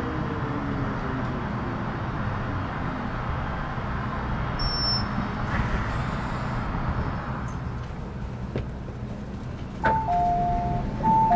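Metro Cammell M-Train electric multiple unit braking to a stop, its GTO chopper and traction motor whine falling in pitch and fading out over the first few seconds under steady rumbling running noise. Near the end a click is followed by a two-tone door chime, repeating.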